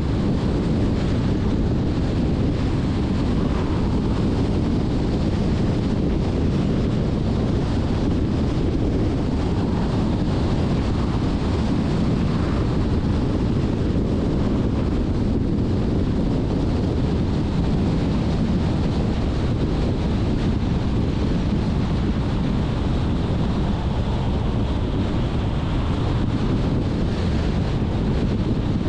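Steady low rumbling wind noise buffeting the microphone, mixed with the road noise of a moving car.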